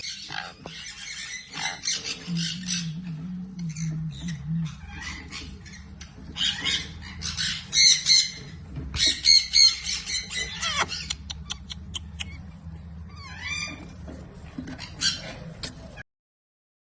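Sun conures squawking in repeated harsh, high-pitched calls, loudest in a run of bursts about eight to ten seconds in.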